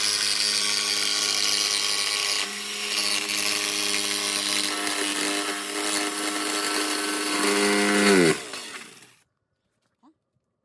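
Power saw fitted with a shortened blade, cutting through the foam insulation in a box truck wall. The motor runs at a steady pitch, then winds down and stops about eight seconds in.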